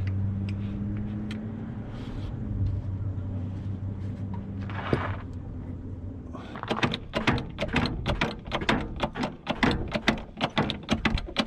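A vehicle engine runs with a low steady hum that slowly fades. About six seconds in, a fast, uneven run of sharp mechanical clicks begins.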